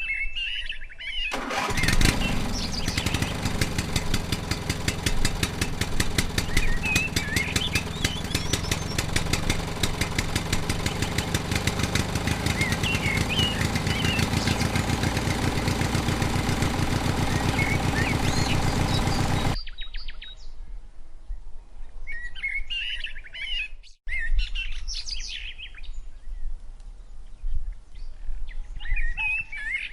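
A small engine starts about a second in and runs steadily with a fast, even chugging, then cuts off suddenly after about 18 seconds. Birds chirp throughout, and only birdsong is left once the engine stops.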